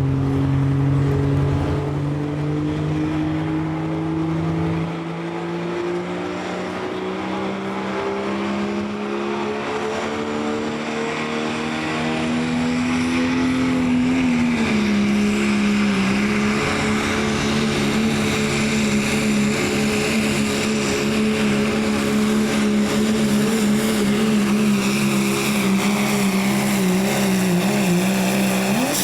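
Diesel engine of a pulling vehicle running at full throttle under load. Its pitch climbs slowly through the first half, dips briefly about halfway through, then holds nearly steady with a slight waver.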